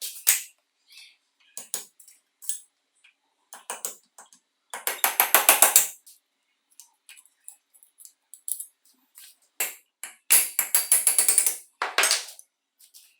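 Hand work on metal parts: scattered light clicks and knocks, with two bursts of rapid rattling clicks, one about five seconds in and one about ten seconds in.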